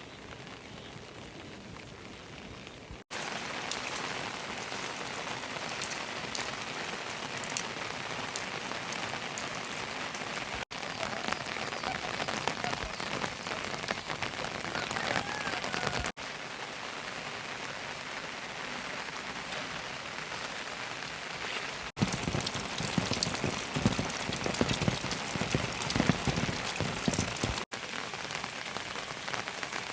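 Heavy monsoon rain falling, heard as a steady hiss in a string of clips that cut one to the next every few seconds. Near the end comes a louder stretch, thick with the hits of individual drops.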